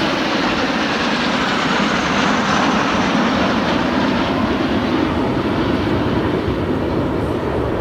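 Loud engine noise of a display aircraft flying past, swelling to a peak a few seconds in and easing off near the end.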